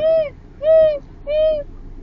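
A loud, regular hooting call repeated three times, each hoot rising and falling in pitch and lasting under half a second, about 0.6 s apart, with a short pause near the end.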